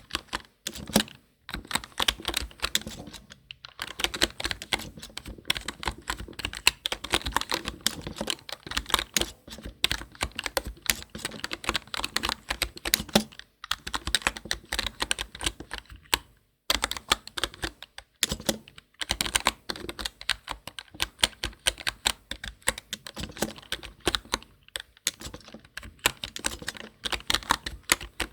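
Continuous typing on a computer keyboard: quick runs of key clicks with a few brief pauses between bursts.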